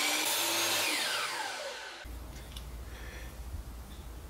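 Miter saw running, then its blade spinning down with a falling whine, which dies away about two seconds in.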